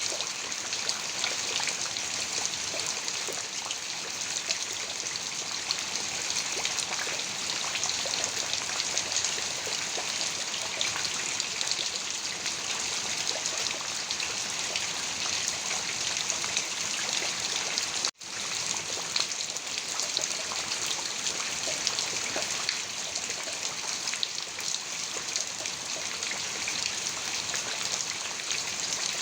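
Heavy rain falling steadily, a dense even hiss of many drops. It cuts out for an instant about two-thirds of the way through, then resumes unchanged.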